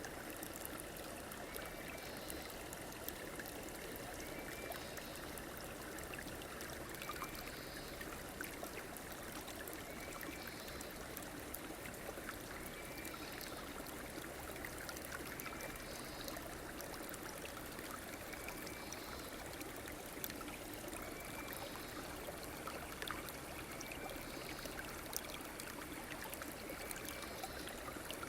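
Stream water running steadily over shallows, with a short high call repeating about every two and a half to three seconds.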